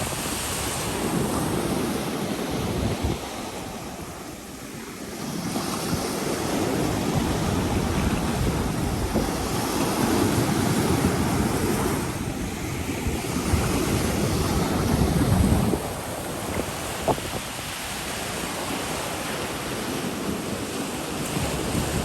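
Surf breaking and washing up on a beach, surging and easing every few seconds, with wind rumbling on the microphone.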